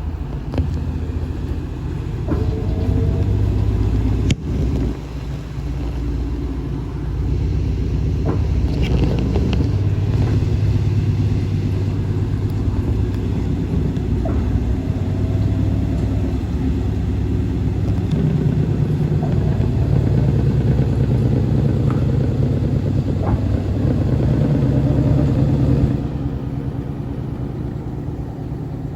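Sharp ESX159 15 kg washing machine on its spin cycle: a steady low rumble with a few sharp clicks. It gets louder about seven seconds in and eases off a little near the end.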